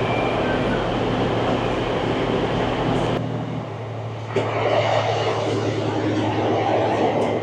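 Passenger train heard from inside a carriage: a steady running noise with a low, even hum. The deep rumble drops away suddenly about three seconds in, and a sharp click follows about a second later.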